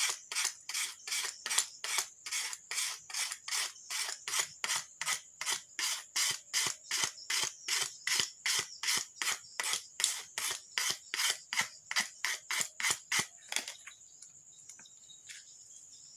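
Hand tool scraping or filing back and forth in quick, even rasping strokes, about three a second, stopping suddenly near the end.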